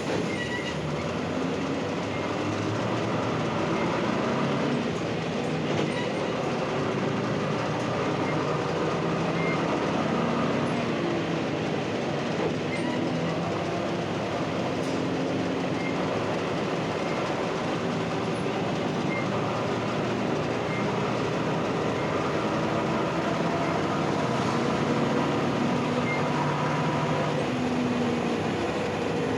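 Cabin sound of an Ikarus-260 city bus under way: its diesel engine running, the note rising and falling with speed, over a steady rumble of road and body noise.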